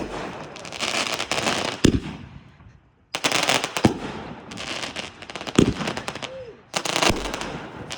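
A big box of consumer fireworks (a multi-shot cake) going off: sharp bangs about every two seconds, each followed by a spread of crackling.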